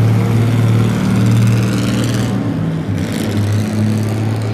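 Engine of a 1923 Alfa Romeo RL Targa Florio running at low parade speed: a steady low drone that swells and eases a little.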